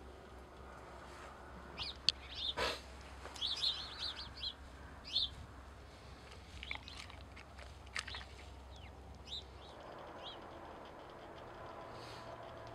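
Small birds chirping: short high chirps, some in quick runs, scattered through the first ten seconds, over a faint low steady hum.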